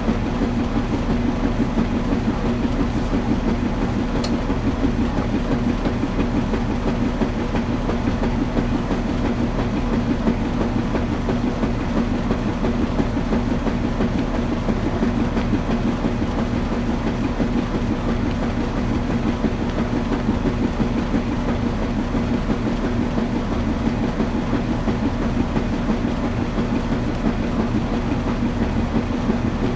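Washing machine running steadily: a continuous hum over a dense, fast, even churning rumble.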